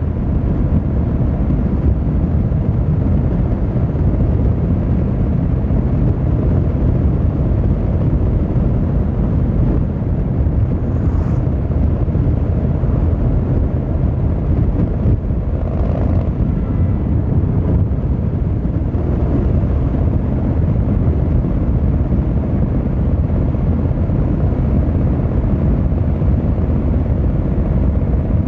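Yamaha XVZ1300 Royal Star's V4 engine and exhaust running steadily while the motorcycle cruises, a loud low rumble without marked revving.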